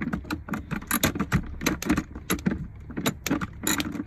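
A 1/2 wrench working a car battery's bolts: a run of sharp metallic clicks and clinks, several a second and unevenly spaced.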